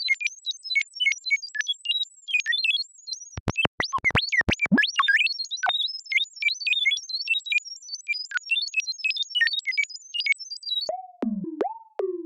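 Synthesized R2-D2-style robot beeps: rapid high chirps jumping up and down in pitch, with a cluster of sharp clicks about four seconds in. Near the end it changes to a lower tone repeated about twice a second, each one sliding down in pitch.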